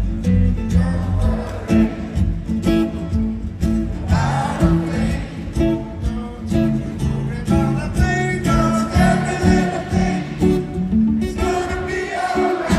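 Band music: singing over guitar, bass and drums with a steady beat.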